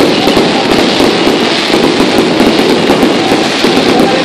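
Fireworks barrage going off without a break: a dense, continuous mass of rapid crackling and popping, loud and steady throughout.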